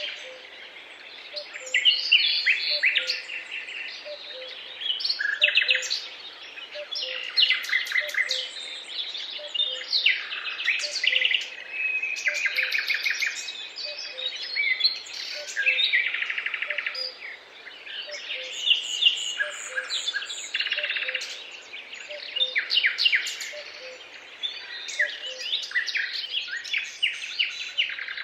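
Several songbirds singing at once, phrases of rapid trills and chirps following one another with short gaps. Under them runs a faint low note repeated about twice a second.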